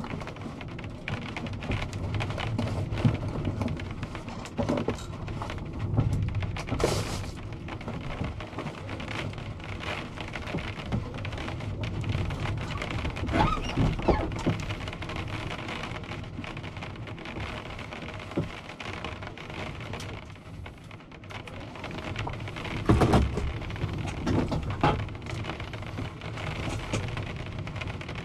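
Heavy rain pattering on the glass and roof of a tractor cab, heard from inside the cab, a dense steady spatter of drops with a few louder knocks scattered through it.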